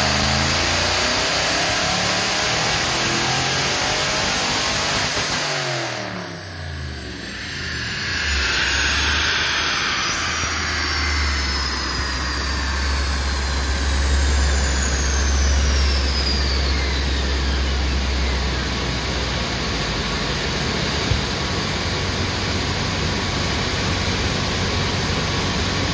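Supercharged 5.7-litre HEMI V8 (Edelbrock E-Force TVS2650 blower) on a chassis dyno at the end of a full-throttle pull: the engine note rises until about six seconds in, then the throttle closes. A high whine then falls steadily in pitch for about ten seconds as the engine and rollers coast down, over a steady low rumble.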